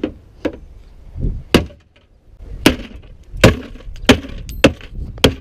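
Repeated hard blows on part of a police car being broken open to get in: about seven sharp knocks, unevenly spaced, with no sustained glass shatter.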